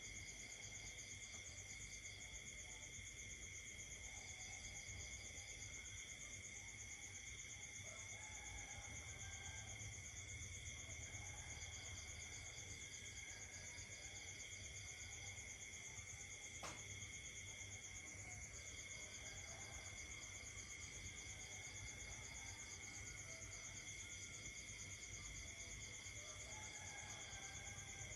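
Night chorus of crickets and other insects trilling steadily at several high pitches, with a faster pulsing trill that drops out and returns several times, and faint scattered lower calls beneath. A single sharp click about seventeen seconds in.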